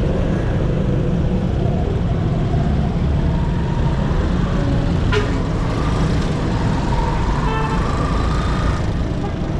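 Motorcycle engine running steadily under way, with a constant low rumble of road and wind noise. A faint pitched tone from passing traffic comes in through the middle, and there is one brief click about five seconds in.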